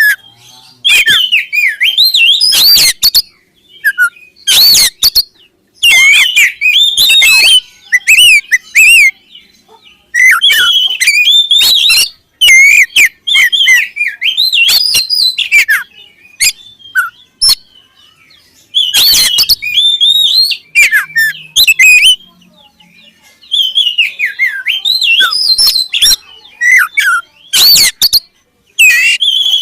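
Oriental magpie-robin (kacer) singing loudly in varied whistled phrases of one to three seconds, broken by short pauses.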